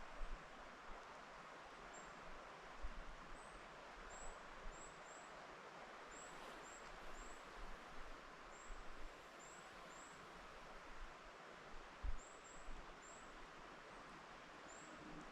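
Wind rustling through forest trees as a soft, steady hiss, with short, thin, high-pitched bird calls repeating every second or so, often in twos and threes. Low bumps of wind hit the microphone now and then, the strongest about 12 seconds in.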